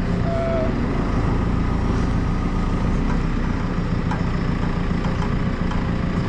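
Large Rolls-Royce turbo-diesel engine idling steadily.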